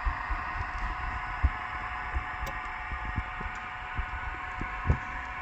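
Steady electrical buzzing from the model railroad layout's power system, the sign of a short circuit on the track. Scattered low thumps sound under it, the loudest about a second and a half in and again near the end.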